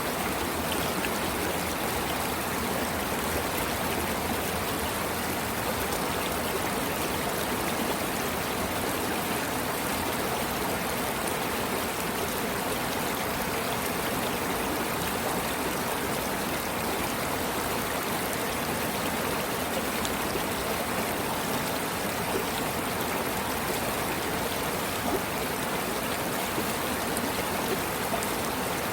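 Steady rushing and trickling of flowing water in a stream, even and unbroken.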